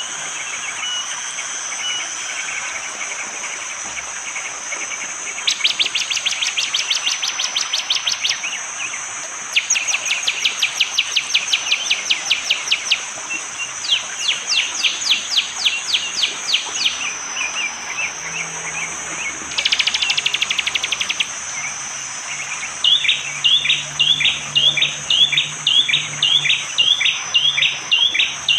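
Prenjak jali, a prinia, calling in rapid dry clicking trills, four runs of two to three seconds each, then a steady series of sharp down-slurred notes about two a second near the end. A steady high insect drone runs underneath.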